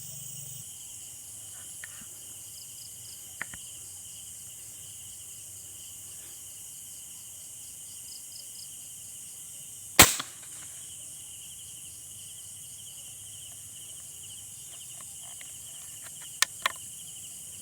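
A single sharp gunshot about ten seconds in, fired at birds at night, over a steady chorus of crickets and insects; two small clicks follow near the end.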